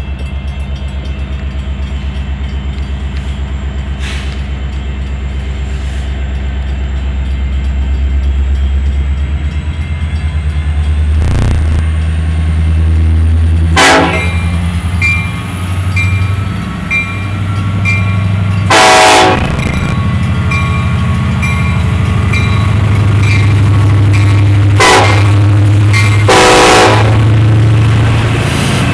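Freight train's diesel locomotives approaching and passing at a grade crossing: the engines' low rumble grows steadily louder, and the lead locomotive sounds its air horn in four blasts, the longest and loudest in the middle, as the warning for the crossing.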